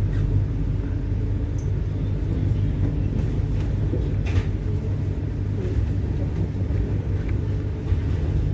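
Passenger train carriage rumbling on the move, heard from inside the coach: a steady low drone with a few faint clicks over it.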